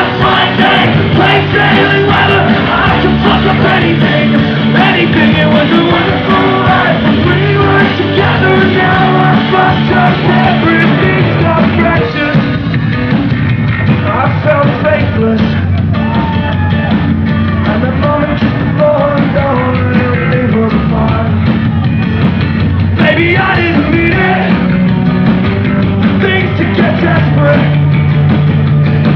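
Live rock band playing loudly in a full concert mix, with singing over it.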